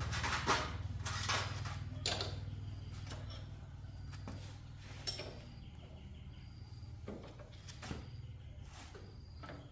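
Several sharp metallic clinks and knocks, like tools and metal parts being handled during motorcycle repair work, over a low steady hum that thins out in the middle.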